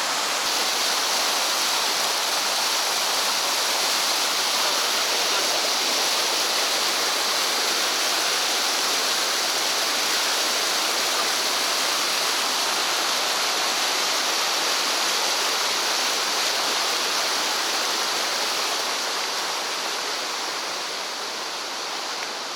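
A mountain river rushing steadily over stones, growing a little quieter near the end.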